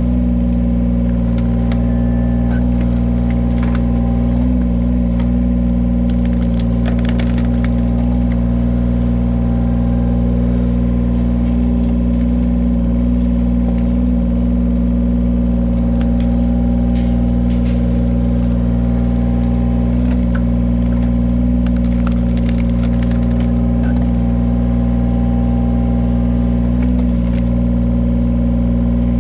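Engine of a firewood-splitting machine running steadily at an even pitch, with a few brief crackles of wood giving way as logs are split.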